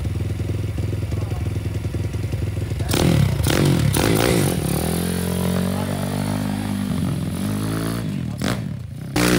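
Pit bike engine running steadily at low revs, then revving up with a rising pitch from about five seconds in before dropping back near the end.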